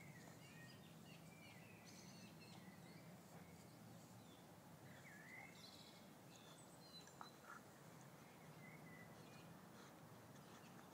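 Near silence: faint outdoor ambience with a steady low hum and scattered faint bird chirps.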